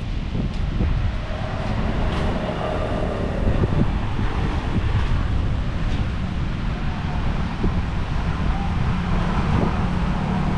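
Beachfront road ambience: wind buffeting the microphone over steady passing traffic, with an engine humming more clearly in the second half.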